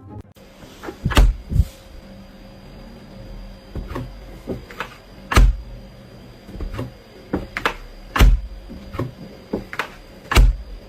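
A series of about a dozen knocks and thuds at uneven intervals, the loudest about a second, five seconds, eight seconds and ten seconds in.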